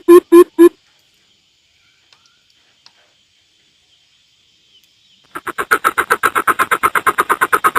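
Coucal calling: a run of deep, evenly spaced hoots, about four a second, ends just under a second in. After a pause, a faster pulsing series of about six or seven notes a second starts a little past five seconds and swells quickly to full loudness.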